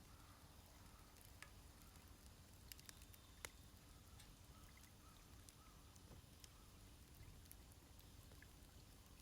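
Wood fire crackling faintly, with scattered sharp little pops and snaps over a low steady background rumble.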